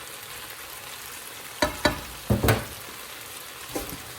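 Chopped tomato, herbs and garlic frying in a pan with a steady sizzle. A utensil stirring them knocks against the pan several times in the middle and once near the end.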